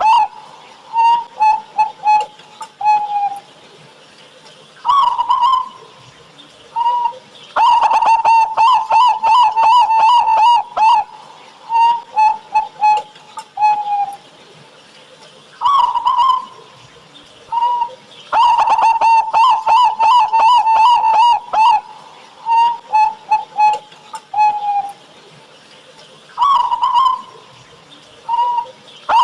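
Zebra dove (perkutut) cooing: repeated song phrases of short, clipped coos and quick trilled rolls on one pitch. The phrase pattern recurs about every ten seconds.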